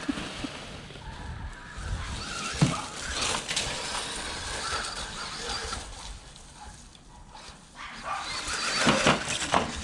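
Jegs Holeshot electric RC stadium truck, on a 3S battery, driving about: its motor whine wavers up and down with the throttle over tyre noise. There is a sharp knock a little under three seconds in, and louder revving near the end.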